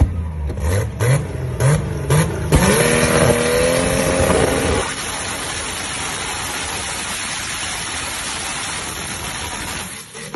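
Chevrolet Opala drag car engine revved in quick repeated blips with sharp pops, then held high for about two seconds. It then gives way to a steady loud hissing rush of fire and sparks blasting from a pipe on the hood, which lasts about five seconds and dies away near the end.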